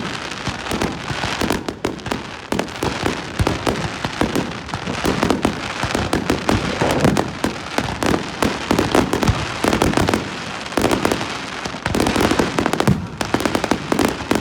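Fireworks going off: a dense, continuous series of sharp bangs and crackling pops, many a second.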